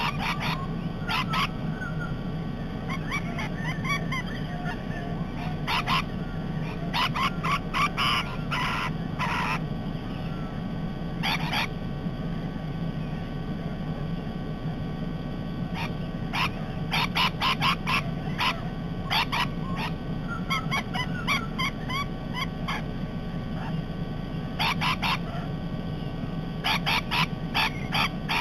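Parrots screeching in runs of short, harsh calls, several in quick succession, with pauses between the runs, over a steady low hum.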